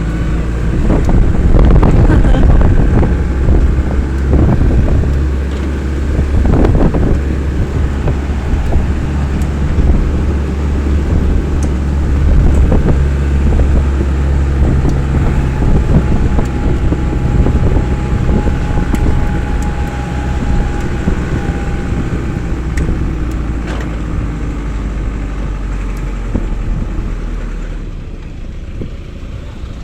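Engine and road noise of a moving vehicle heard from on board: a heavy, steady low rumble that swells and eases with the ride, dropping off shortly before the end.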